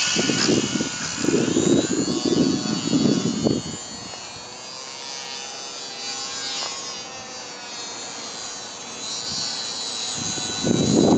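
Electric motor and propeller of a small ParkZone Su-26 RC model plane whining as it flies, the pitch sliding up and down with throttle and distance. Gusty wind buffets the microphone in the first few seconds and again near the end.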